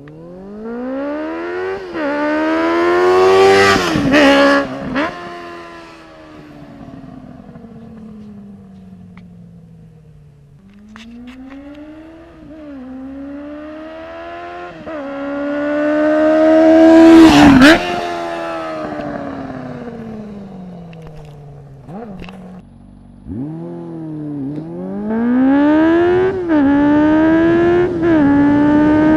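A 2013 Honda CB400 Super Four Hyper VTEC Revo's 399cc inline-four, running through an unbaffled IXIL slip-on exhaust, makes high-revving passes. Each time the pitch climbs through the gears with brief dips at the shifts, then drops sharply as the bike goes by and fades away. The loudest pass comes a little over halfway through, and a third run is accelerating hard near the end.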